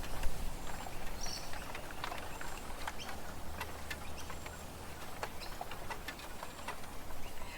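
Bamboo forest ambience: bamboo stalks clicking and knocking irregularly, over a low steady rumble.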